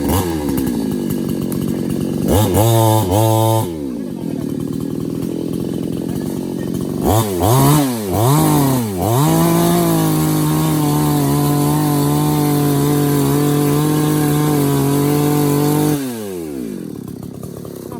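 Petrol chainsaw engine idling, revved sharply up and down twice, then held at high revs for about six seconds before dropping back to idle.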